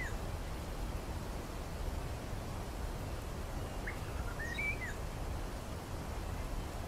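Steady low background hum, with a few faint bird chirps about four to five seconds in.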